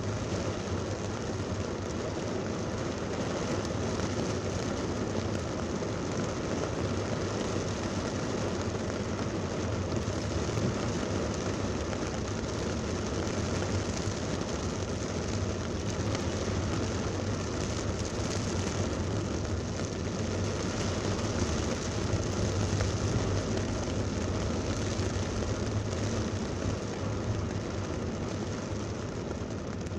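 Heavy thunderstorm rain pouring on a car in traffic, mixed with the steady low rumble of the vehicle and road. The noise stays at an even level throughout.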